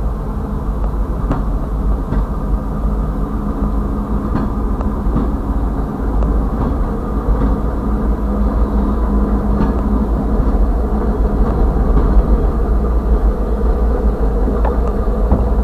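Freight train passing: two diesel locomotives rumble by, then freight cars roll past with scattered clicks, heard muffled from inside a vehicle's cab. The rumble grows gradually louder.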